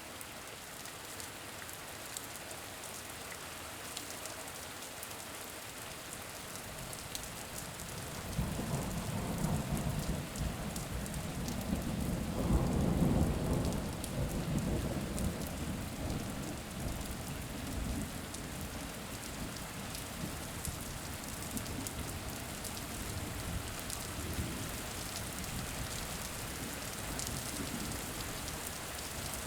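Steady rain falling, with a long low rumble of thunder that builds about eight seconds in, is loudest a few seconds later, then slowly dies away under the rain.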